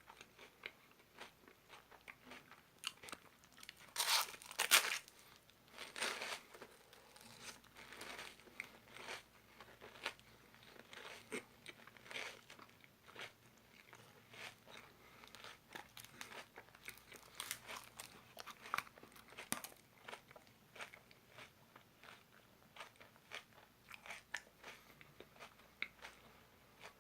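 Close-up biting and chewing of a Gugu Cone chocolate ice cream cone: repeated crisp crunches of the wafer cone, the loudest bites about four and five seconds in, then a steady run of smaller crunches and chewing.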